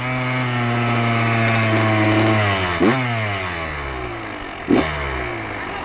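Dirt bike engine running steadily, then revved in two quick throttle blips about three and five seconds in, each dropping back in pitch afterwards.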